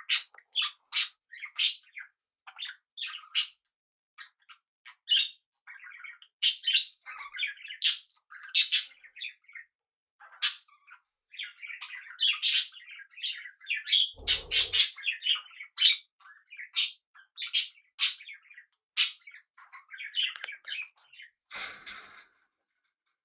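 Pet budgies and cockatiels chirping and squawking in many short, irregular calls, with one especially loud burst about fourteen seconds in.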